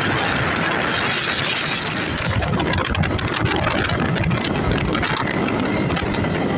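Yamaha TW200's single-cylinder four-stroke engine running while riding, under a steady rush of wind noise.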